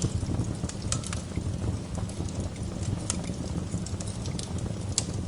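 Wood fire crackling in a fireplace: a steady low rumble of burning with scattered sharp pops, the loudest about five seconds in.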